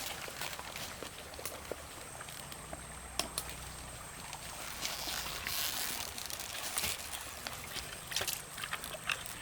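Water trickling and sloshing, with scattered small clicks and knocks and a louder splashy stretch about five seconds in.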